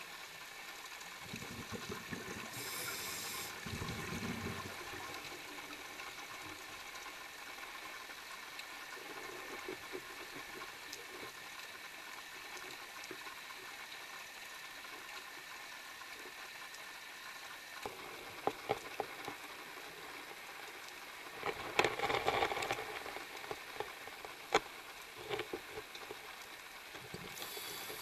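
Underwater sound through a camera housing: a scuba diver's regulator breathing, with bursts of bubbling exhalations. The longest and loudest burst comes a little over twenty seconds in, and a few sharp clicks fall in between.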